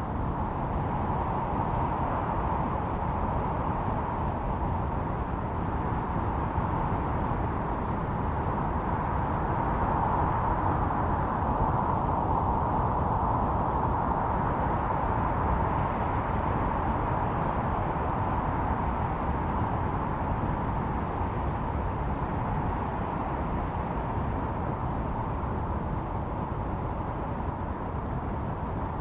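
Snowstorm wind blowing steadily: a continuous rushing noise with a howling tone in it that swells a little and eases off again.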